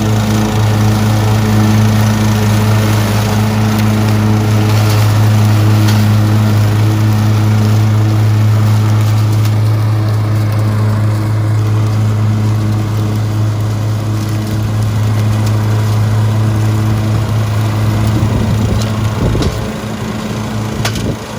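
Lawnmower engine running steadily at a constant speed. Near the end the hum briefly wavers and drops a little in level.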